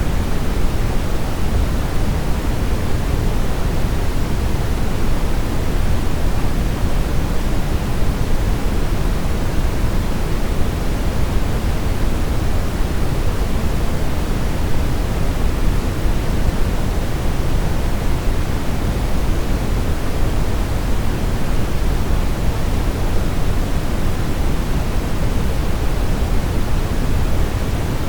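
Steady brown noise: an even, unbroken hiss, deepest and strongest in the low end and fading toward the highs, like a low rumble.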